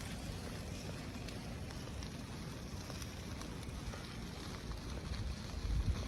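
Wind buffeting the microphone with a low rumble, swelling into a stronger gust near the end.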